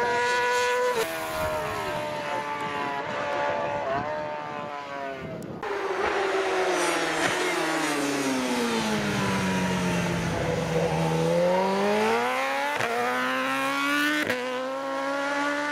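Superbike racing motorcycle engine at high revs, climbing through several quick upshifts in the first few seconds. Its pitch then falls slowly for about four seconds as it comes off the throttle and rises again through more upshifts near the end.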